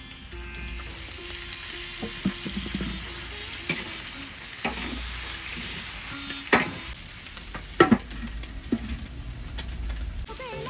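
Pork curry frying in a pot, sizzling steadily, while a spoon stirs and scrapes it, knocking against the pot several times; the loudest knocks come about two-thirds of the way in.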